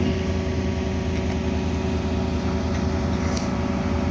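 Steady low hum of an idling vehicle engine, with a faint click about three and a half seconds in.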